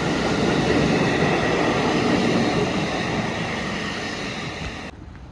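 A train running past at close range: a loud, steady rush and rumble of wheels on rail with a faint whine, fading slightly before it cuts off suddenly near the end.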